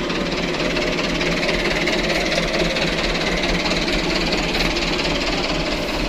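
Diesel truck engine running steadily, with a fast even chug and no change in speed.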